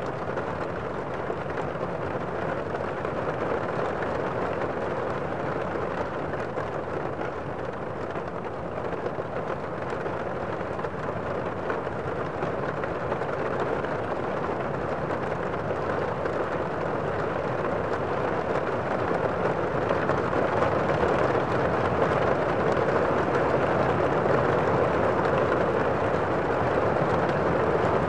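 Steady rushing noise of heavy rain, growing somewhat louder past the middle.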